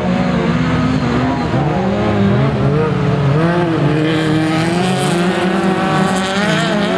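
Autocross race car engines revving hard, the pitch repeatedly rising and falling as the cars accelerate and lift.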